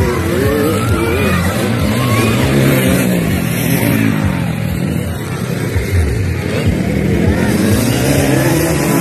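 Motocross dirt bike engines revving, their pitch rising and falling over and over as the bikes race.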